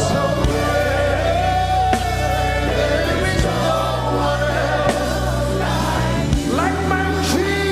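Live gospel worship music: sung melody with choir over a band with sustained bass and keyboard chords and light drum hits.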